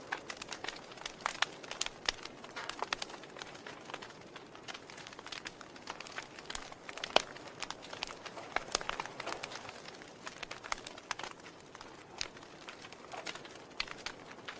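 Wood fire burning in a fireplace, crackling: irregular sharp pops and snaps over a soft hiss, with one louder pop about seven seconds in.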